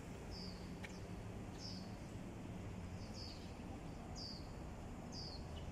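A small bird calling: a short, high chirp that slides downward, repeated about once a second, over a faint steady low hum of city background.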